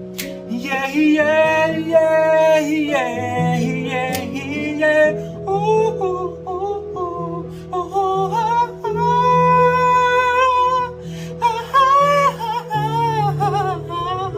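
Wordless singing with a wavering, sliding pitch over steady instrumental backing chords: a vocal exercise for building resonance.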